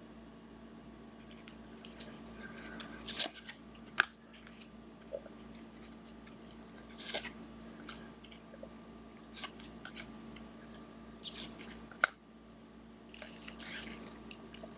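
Trading cards and their packaging being handled: irregular crinkling and rustling, with a few sharp clicks.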